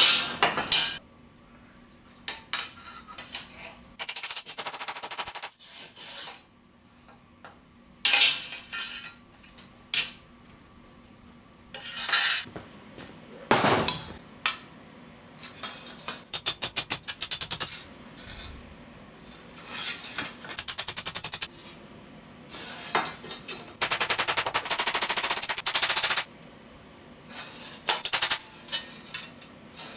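Welding on steel floor supports in short crackling bursts of a second or two, with pauses between them.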